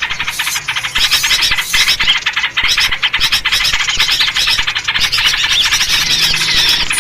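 Dense, continuous chatter of many small songbirds calling over one another, rapid chirps and short whistled notes with no pause: a noisy flock-chatter lure recording made to draw in small birds.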